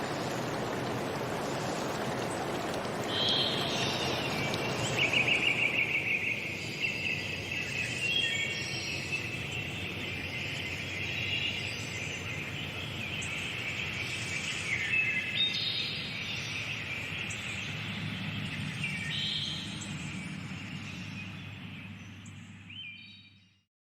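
Running water for the first few seconds, then several birds singing and chirping in short repeated phrases. It fades out near the end.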